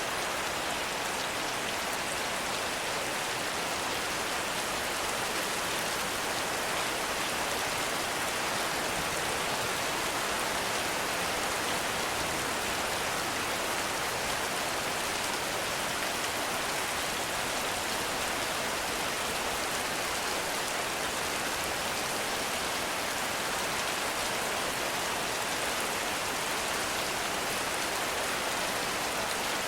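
Heavy rain falling steadily, a dense even hiss of countless drops with no let-up.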